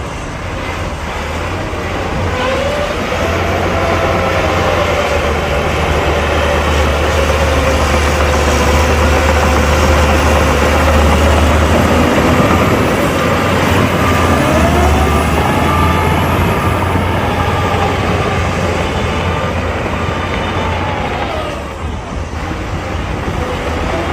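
Heavy diesel engine of earthmoving equipment running with a deep, steady rumble, its pitch rising and falling several times as it works. The sound dips briefly near the end.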